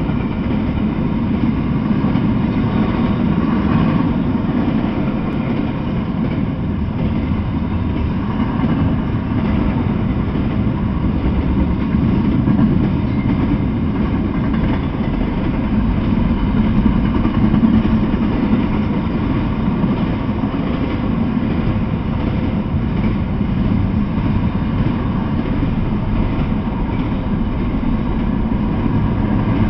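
Double-stack intermodal freight train, container-laden well cars rolling past on steel rails with a steady, loud low rumble.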